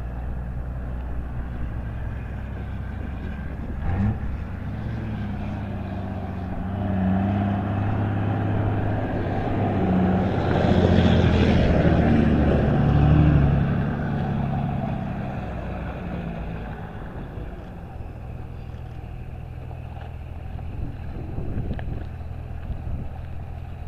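A train passing by: a steady low rumble builds, is loudest around the middle, and then fades away.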